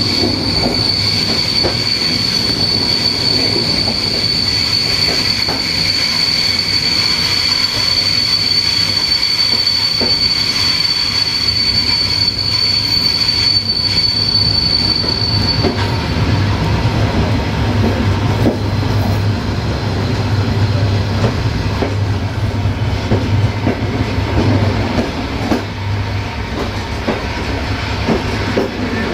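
Passenger train rolling with a steady high-pitched wheel squeal, as on a curve, that stops about halfway through, leaving the steady low rumble of the running train with a few faint knocks.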